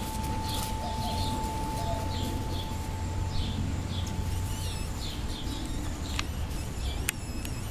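Small birds chirping over and over, about two chirps a second, over a low steady hum; a thin steady tone runs under them and cuts off about six seconds in.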